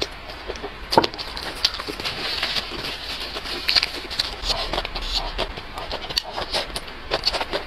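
A person chewing crunchy fried shrimp close to a clip-on microphone: irregular crunches and wet mouth clicks, with one sharp crunch about a second in.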